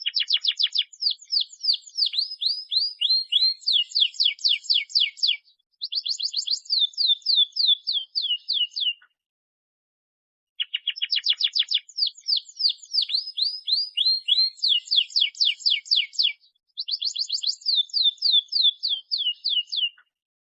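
Domestic canary singing in long, loud phrases of rapid falling notes, about six a second. A short pause comes about half-way through, then the same song starts again.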